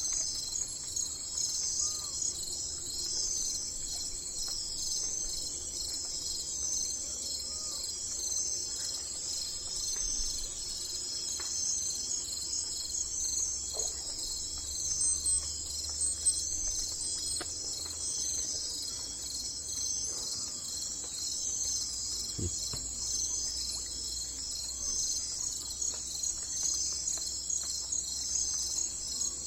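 Chorus of crickets or similar insects: a continuous high, pulsing trill, with a few faint short chirps now and then.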